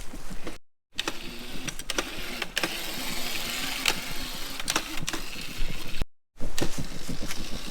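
Razor MX350 electric dirt bike riding over bumpy ground: the electric motor and chain drive whirring faintly, with scattered knocks and rattles from the bike. The sound cuts out completely twice, briefly, about a second in and about six seconds in.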